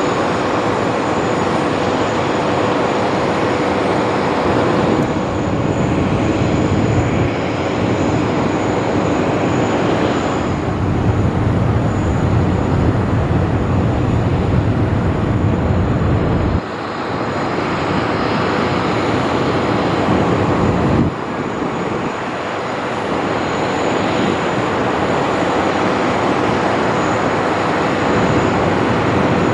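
Jet noise from a Boeing 777X's GE9X turbofan engines in flight: a loud, steady rush with a thin whine running through it. The sound shifts abruptly twice in the second half.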